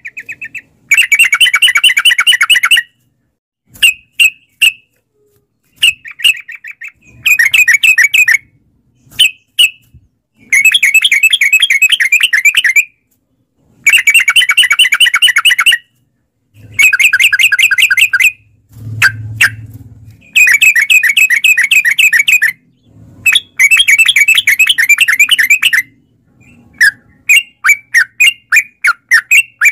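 Trucukan (yellow-vented bulbul) singing long, rapid chattering phrases, each a second or two long, with short pauses between. Near the end it gives a quicker string of separate short notes.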